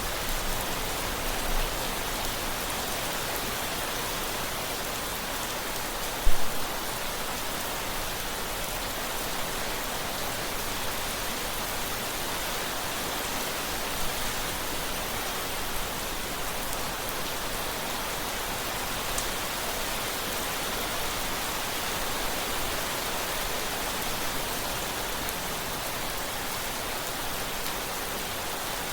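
Steady rain falling, an even hiss of many drops. About six seconds in there is a single brief, sharp thump, the loudest moment.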